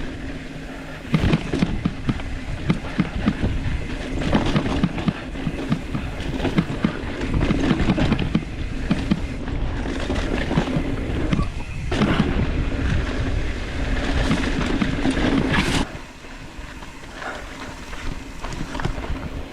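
Mountain bike riding fast down a rough, loose dirt trail: tyres crunching over rocks, with a steady stream of rattles and knocks from the bike. It eases off and gets quieter near the end.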